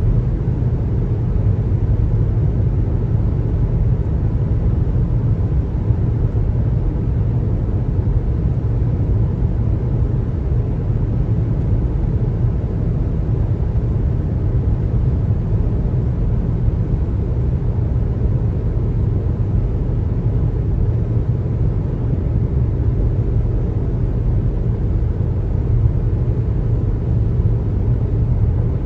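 Steady road noise of a car driving: a continuous low rumble of tyres and engine with no distinct events.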